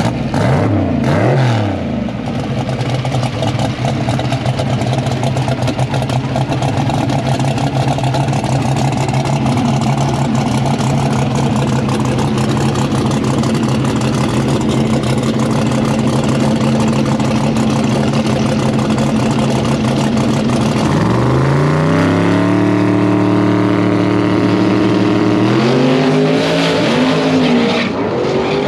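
A twin-turbo Mustang drag car's engine on the starting line. It is blipped at first, then runs at a steady, even note for most of the time. Near the end it is revved up and held at a higher pitch twice with a dip between, as the car stages for its launch.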